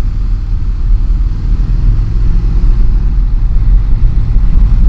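Motorcycle engine running at a steady road speed under way, with a low rumble and a hiss of wind and road noise over it.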